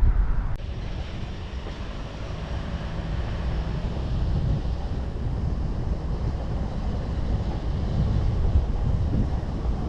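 Wind buffeting the microphone: a steady, gusting low rumble with a faint hiss above it.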